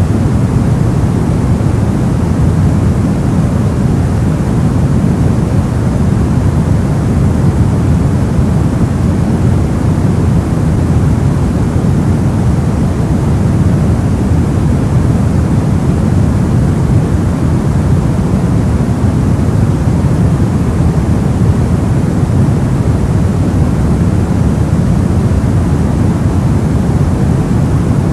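Soft white noise for sleep: a steady, unchanging hiss weighted heavily toward the low end, so it sounds like a deep, even rumble.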